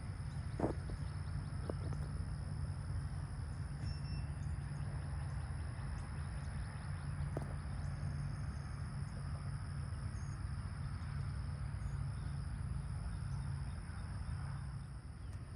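Steady outdoor background: a low rumble like wind on the microphone, with insects buzzing and a few faint clicks.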